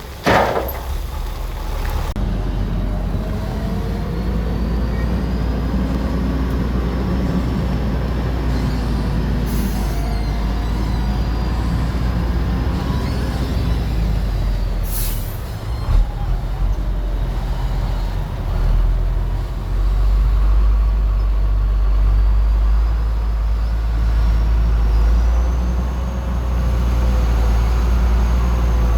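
Heavy diesel earthmoving machinery running steadily, with a few short hisses and slightly louder running in the last third.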